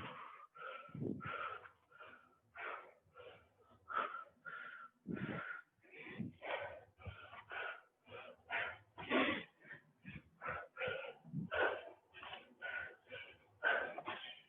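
A person breathing hard and fast from exertion during squats and lunges: quick, short puffs of breath, about two a second, held to a steady rhythm.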